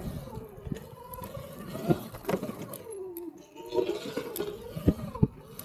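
Electric dirt bike's motor whine rising and falling in pitch with the throttle while riding, with a few sharp knocks along the way.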